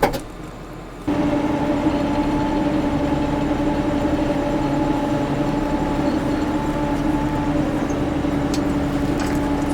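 A short click, then about a second in a tractor engine starts to be heard running at a steady speed with a constant hum, holding unchanged.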